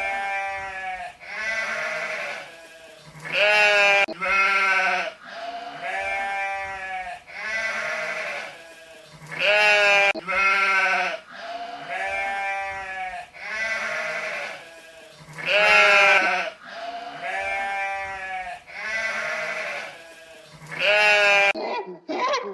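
Sheep bleating over and over, about fifteen calls of roughly a second each with a wavering, trembling pitch. In the last second a different, sharper sound begins.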